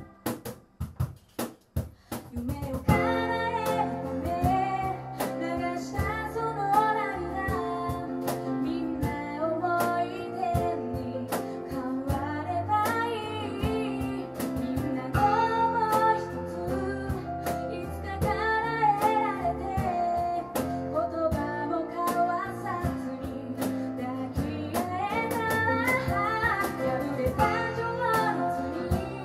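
Acoustic band playing live: a woman singing over keyboard, guitar and hand percussion. In the first two seconds the music drops to a few sharp percussion hits with short gaps, then the full band and the singing come back in.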